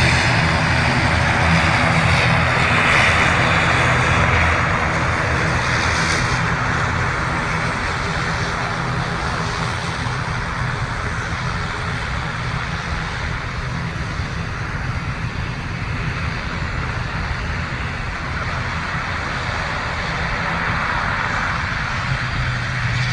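Airliner engines running with a steady, loud rushing noise and a low hum. The sound eases a little in the middle and builds again near the end.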